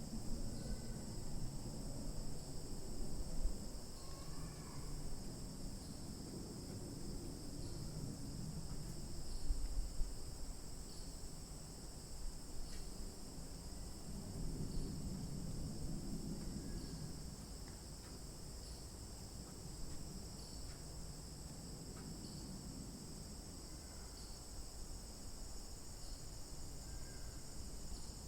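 Steady, unbroken high-pitched chorus of insects trilling, with a few short faint chirps over it. An uneven low rumble underneath swells and fades.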